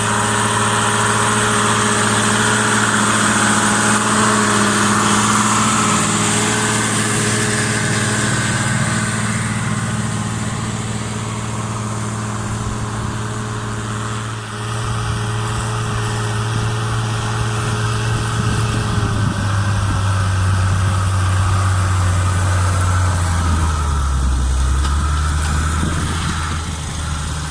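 New Holland 110-90 FiatAgri tractor's diesel engine running steadily under load while pulling a subsoiler through the ground. Its pitch drops about two-thirds of the way through and falls further near the end.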